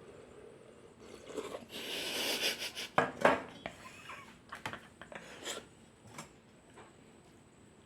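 Spoon scraping and clinking against dishware while eating: a second of scraping, then two sharp clinks about three seconds in and several lighter clicks after.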